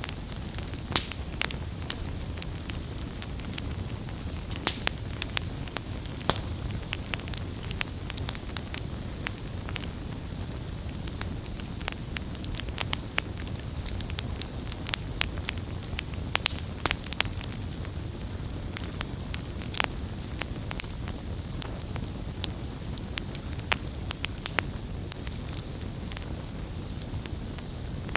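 Wood campfire crackling, with frequent irregular sharp pops over a low, steady rush.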